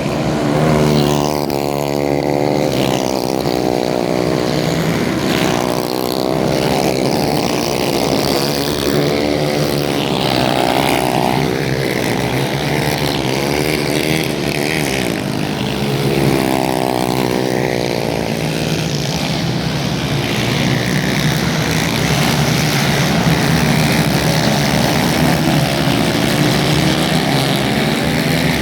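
Racing kart engines running loud at high revs, the pitch rising and falling repeatedly as the karts accelerate and lift off through the corners, with several engines overlapping at times.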